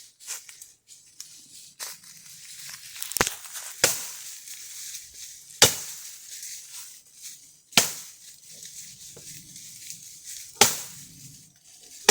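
Axe chopping firewood: five heavy blows spaced one to three seconds apart, with lighter knocks between them.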